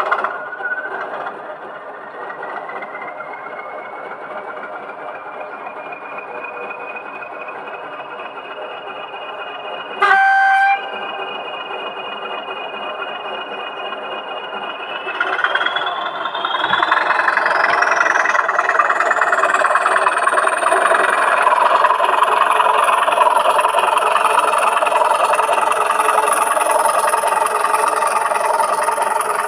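Sound-fitted O gauge model locomotive running, with a whine rising in pitch over the first few seconds and a short horn blast about ten seconds in. From about fifteen seconds in it powers up: louder, with a whine climbing high in pitch.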